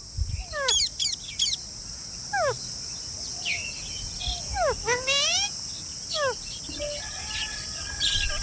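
Indian ringneck parakeets calling: a series of short, harsh squawks that mostly sweep down in pitch, some in quick clusters about a second in and around five seconds in. A steady high-pitched drone runs underneath.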